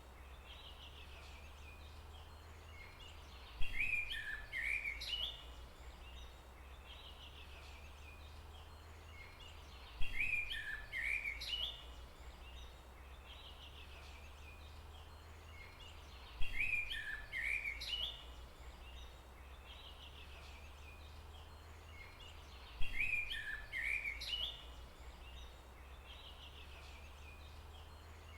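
A songbird singing a short phrase of quick chirping notes. The same phrase repeats four times at even intervals about six seconds apart, over a steady low rumble.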